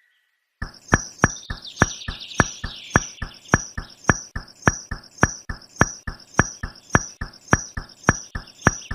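Sharp clicks or knocks in an even rhythm, about three a second, starting about half a second in, each with a short high ring.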